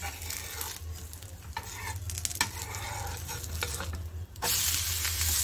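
Steel spatula scraping and tapping under a rava uttapam on a hot dosa tawa. About four seconds in comes a sudden, loud, steady sizzle as the uttapam is flipped and its raw side meets the hot pan.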